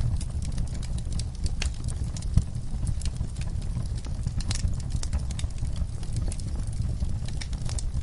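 Wood fire burning in a fireplace: irregular pops and crackles over a steady low rumble, with one louder pop about two and a half seconds in.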